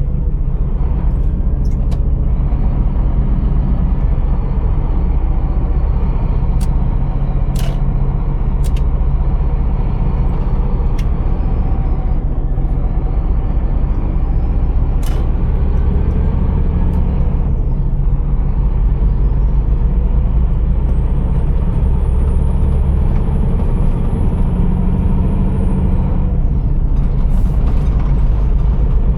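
Scania R480 truck's straight-six diesel running steadily, heard from inside the cab, with a few short clicks and a faint high whistle that rises and falls near the middle.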